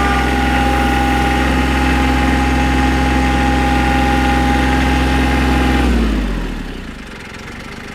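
Compact diesel tractor engine running steadily at working speed, then throttled down about six seconds in and settling to a quieter, lower idle.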